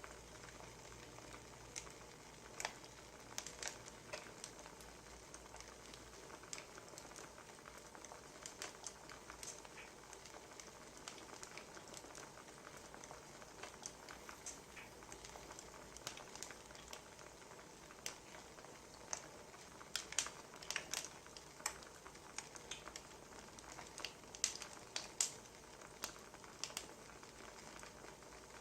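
Wood fire crackling, with irregular sharp pops and snaps over a soft steady hiss; the pops come thicker about two-thirds of the way in.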